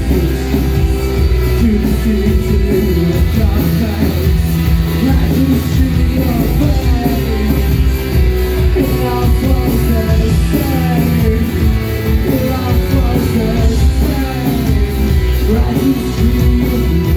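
Live post-punk band playing loudly: a dense, steady wash of bass, guitar and drums, with gliding melodic lines over it.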